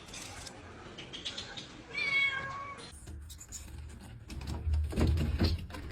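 A cat meows once, a short call about two seconds in. A few dull thumps and rustling follow near the end.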